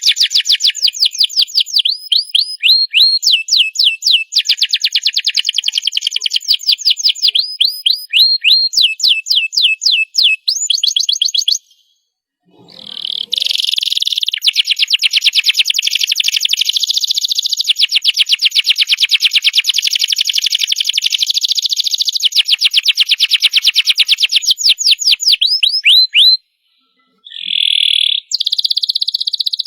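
Domestic canary singing a long song of fast rolling trills: rapid runs of repeated notes and quick rising sweeps, including one long unbroken rapid trill through the middle. The song breaks off briefly twice, about twelve seconds in and near the end.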